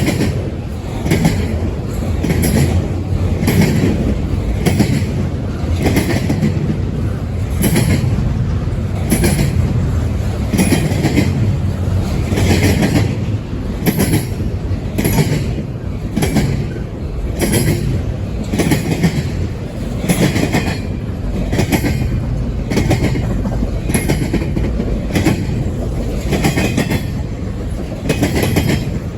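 Double-stack container train cars rolling past, with a steady rumble and wheels clacking over the rail joints about once a second.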